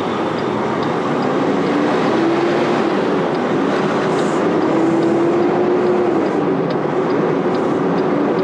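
Semi-truck's diesel engine pulling away, heard from inside the cab: a steady drone whose pitch climbs, dips briefly about six seconds in, and climbs again.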